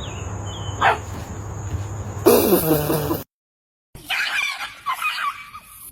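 Animal calls across edited clips: a single falling squeal, a loud noisy burst, then after a brief silence a run of high, changing calls.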